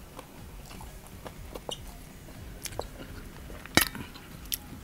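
Close-up mouth sounds of a person chewing instant noodles, with small wet clicks throughout. A sharp click about three quarters of the way through and a smaller one shortly after.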